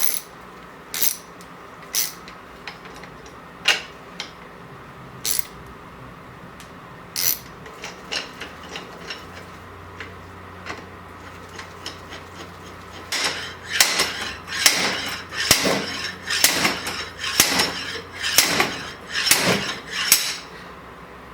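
Scattered metal clinks of tools being fitted, then about halfway through a run of about a dozen sharp metal blows less than a second apart: a slide hammer pulling a threaded tilt pivot pin out of a GM tilt steering column.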